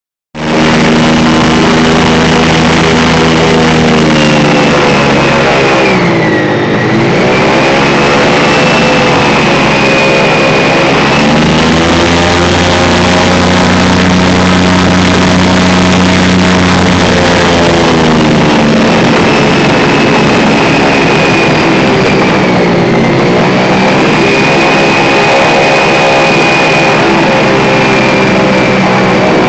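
Airboat engine and propeller running loud and steady, the pitch dropping and climbing back twice, about six and twenty-three seconds in, as the engine slows and speeds up again.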